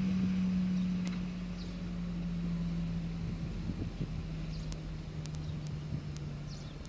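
A locomotive running light, its steady low engine hum sinking slightly in pitch and fading as it moves away, with a few faint clicks.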